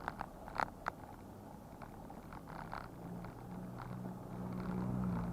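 A few sharp clicks in the first second, then a motor vehicle's engine hum that grows louder from about three seconds in.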